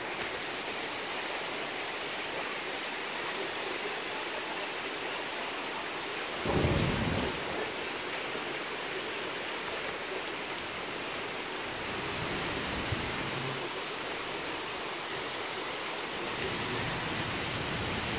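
Heavy thunderstorm rain falling steadily, an even hiss, with a short, loud low rumble of thunder about six and a half seconds in and a fainter low rumble around twelve seconds.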